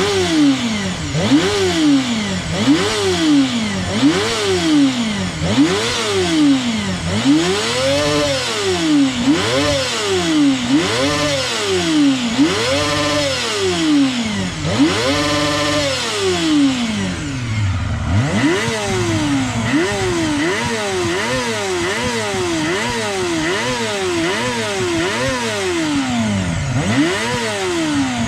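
Honda CBR250RR (MC22) 250 cc inline-four engine revved again and again through a BEET Nasert slip-on muffler. The throttle blips rise and fall in pitch about every second and a half, with some higher revs in the middle. About two-thirds of the way through the engine drops back to idle, then it is blipped in shorter, quicker bursts.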